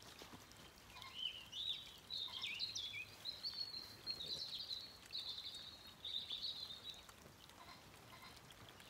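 A songbird singing a run of quick, warbling phrases with rising and falling notes, from about a second in until about seven seconds in.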